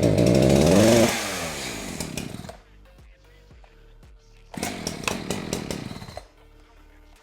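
Echo CS-590 two-stroke chainsaw engine running just after a cold start: it runs at high revs for about a second, then its pitch falls and it settles to a low idle. About halfway through it is revved up again for under two seconds, then drops back to idle.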